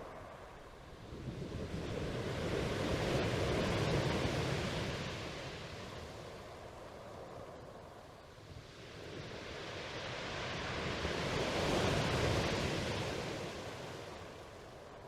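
Sea waves washing in: two slow swells of surf, each building and falling away, about eight seconds apart.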